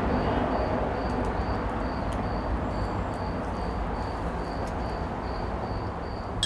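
Insect chirping: a short high chirp repeating evenly, about two to three times a second, over a steady hiss. A single sharp click near the end.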